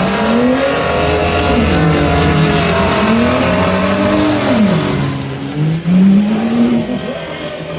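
Racing truck engines revving, their pitch climbing and dropping again about four times as the trucks accelerate and lift off around the dirt track.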